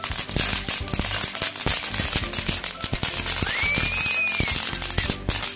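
Fireworks crackling, with many sharp pops each second in rapid irregular succession, over background music with held low notes. A short whistle rises and falls about three and a half seconds in.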